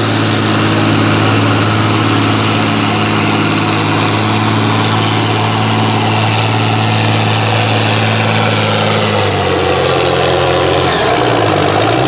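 Farm tractor's diesel engine, plausibly an International 1466, working hard under load while it drags a weight-transfer pulling sled, its note held steady. About nine seconds in the engine note drops and wavers as the tractor slows toward the end of the pull.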